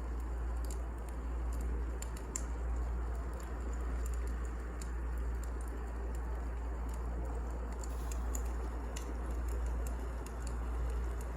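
Wood fire burning: a steady low rush with scattered small crackles and pops throughout.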